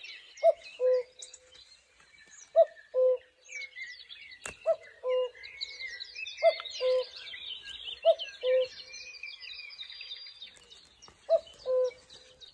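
Birds singing: a low two-note call, a short higher note then a longer lower one, repeating about every two seconds over fainter, higher chirping. A single sharp click comes about midway.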